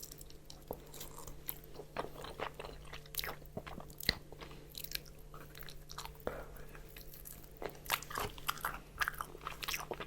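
Close-miked chewing of crispy fried chicken: the fried breading crackles and crunches in quick, irregular bursts throughout, over a faint steady low hum.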